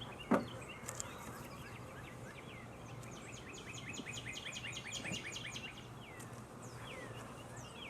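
A songbird singing a fast trill of short down-sweeping chirps, about six a second, for some two and a half seconds from about three seconds in, with a few single chirps around it. A single thump sounds just after the start.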